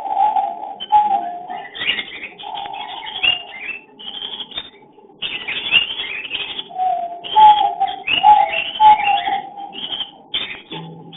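A cockatiel pair calling during mating: a low, wavering call repeats several times under a rapid run of short, harsh chirps and squawks.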